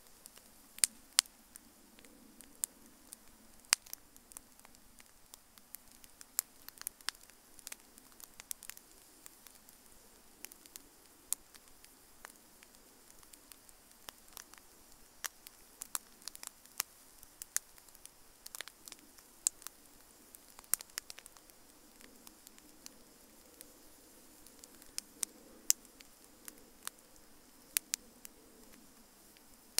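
Wood campfire crackling: irregular sharp pops and snaps, a few a second, over a faint steady hiss.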